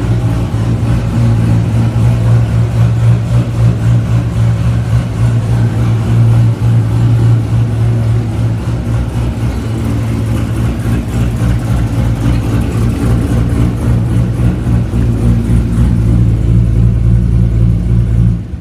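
Heavily cammed LS7 V8 of a 2007 Corvette Z06 idling loudly and steadily through long-tube headers and a near-straight-piped exhaust, cut off right at the very end.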